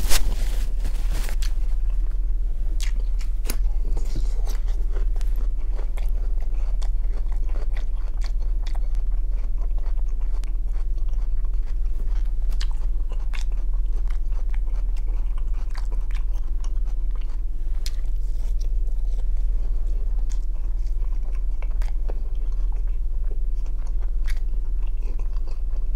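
Close-up chewing of grilled shashlik: wet mouth clicks and smacks scattered throughout, over a steady low electrical hum. At the very start, a short loud blast as he blows his nose into a napkin.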